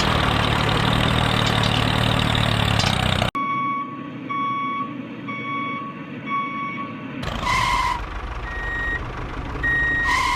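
A heavy truck's engine running, cut off abruptly about three seconds in. Then a truck's reversing alarm beeps in an even series of about five half-second beeps, followed by a few shorter, higher beeps and chirps.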